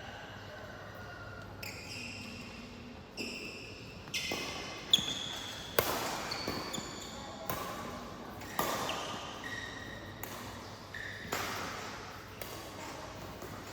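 Badminton rally: sharp racket hits on the shuttlecock about once a second, beginning about three seconds in, with short high squeaks between the hits.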